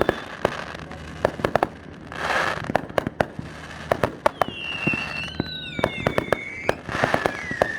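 Fireworks going off in rapid succession: many sharp bangs, several whistles that fall slightly in pitch, and a hissing rush about two seconds in.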